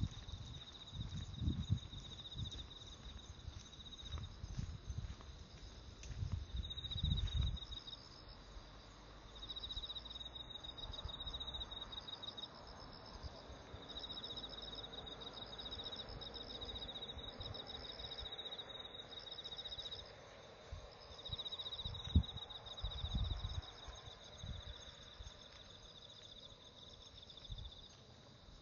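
Insects trilling near 4 kHz in repeated phrases of one to three seconds, over low thuds and rustling of footsteps and clothing from someone walking, heaviest in the first several seconds and again a little after twenty seconds in.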